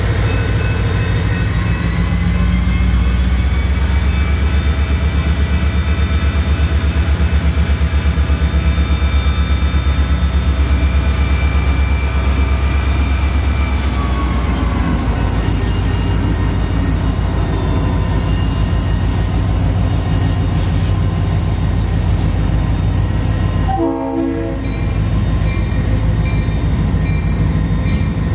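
A train passing close by with a loud, steady rumble and rhythmic clatter of wheels on the rails, and a whine that rises in pitch a couple of seconds in and drops away about halfway through. A short horn blast sounds near the end.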